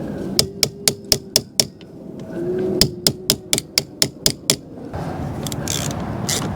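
Hammer tapping lightly on battery hardware in two quick runs of sharp strikes, about six and then about eight. A rustling of handling follows near the end.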